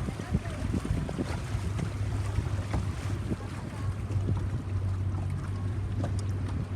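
Boat engine running steadily under way, a low even hum, with wind buffeting the microphone and water rushing past.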